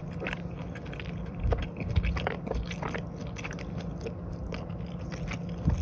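A person chewing and biting food with the mouth close to the microphone, a run of many small crunchy clicks.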